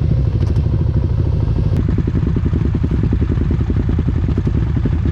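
A four-wheeler (ATV) engine running steadily, with a rapid, even stream of firing pulses.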